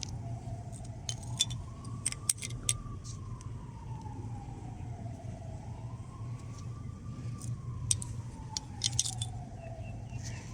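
A siren wailing slowly up and down, about one rise and fall every five seconds, over a steady low hum, with scattered light metallic clicks and jingles.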